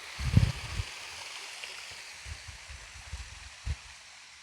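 Small creek waterfall splashing, a steady rush of water that eases a little toward the end. Several dull low thumps on the microphone break through it, the loudest just under a second in.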